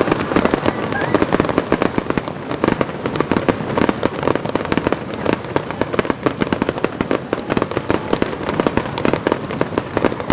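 Fireworks going off in a dense, continuous crackle of many rapid pops and bangs.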